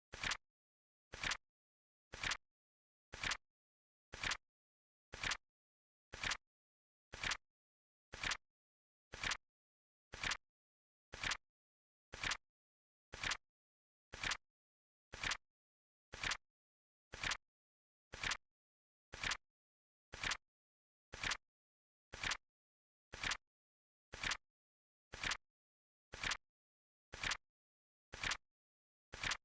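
Flip clock timer sound effect ticking steadily about once a second, each tick a short, sharp double click with silence between.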